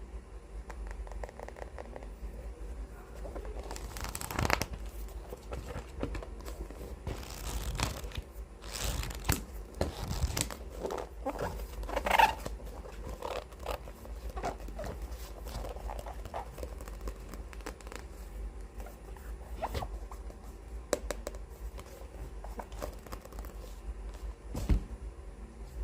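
Hands handling books: papery swishes of pages and covers being rubbed and turned, mixed with small light taps and clicks, the loudest swishes about four, nine and twelve seconds in.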